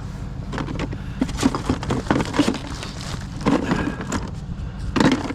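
Repeated clattering and rattling of junk being handled and sorted through, over a steady low rumble.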